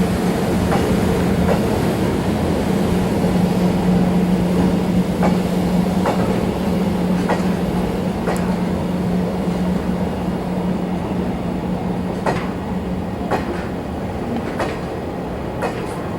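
Oil tank wagons of a freight train rolling slowly, their wheels clicking over rail joints about once a second under a steady low hum that fades out near the end.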